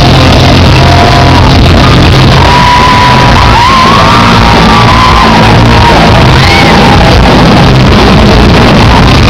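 A live rock band playing loud amplified music, with a voice shouting or singing over it. The recording is overloaded throughout.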